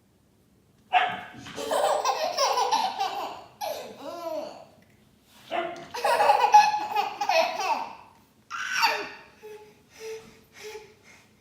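Hearty laughter in two long fits, with a shorter burst after them, following a moment of silence at the start.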